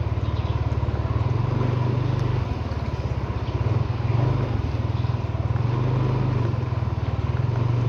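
A vehicle engine running with a low, rapid pulsing note that swells and eases every second or two, over a steady hiss of road or wind noise.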